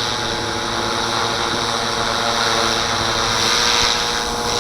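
Walkera V450D01 electric RC helicopter hovering in stunt (idle-up) mode at raised head speed: a steady motor whine and rotor hum, with wind rushing over the microphone.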